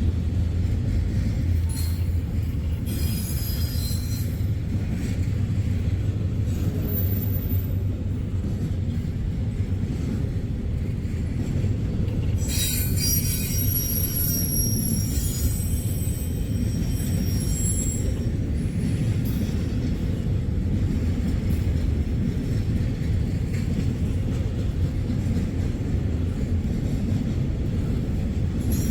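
Freight train rolling past with a steady low rumble of cars on the rails. High-pitched wheel squeal rises briefly about three seconds in, and again more strongly for several seconds around the middle.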